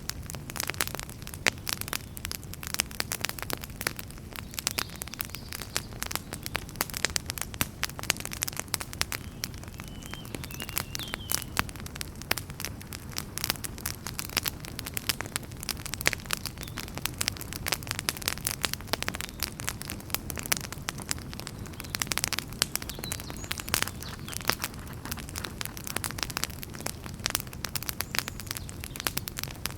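Wood fire burning in a fireplace: dense, irregular crackling and popping over a steady low rumble of flames, with a brief faint hiss or whistle about ten seconds in.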